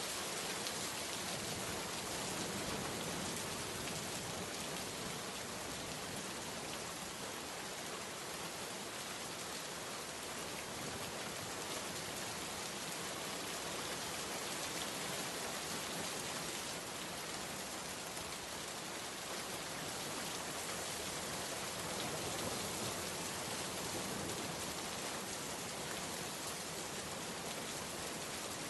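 Steady heavy rain falling on a surface, an even hiss of many drops with no breaks.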